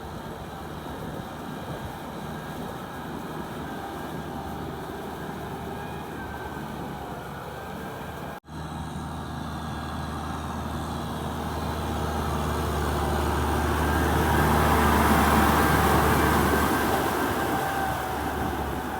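Diesel tractor engine running steadily, cut off for an instant a little before halfway. After that it grows louder, is loudest about three quarters of the way through, and eases off near the end.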